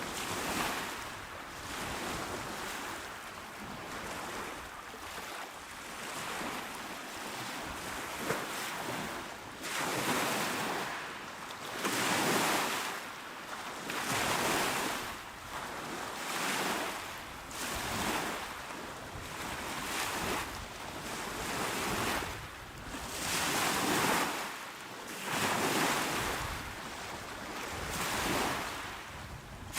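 Calm sea waves breaking on the shore, the surf swelling and washing back about every two seconds.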